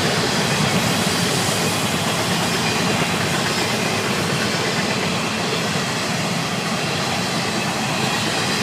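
Florida East Coast Railway freight train's container cars rolling past, with a steady noise of wheels on rail.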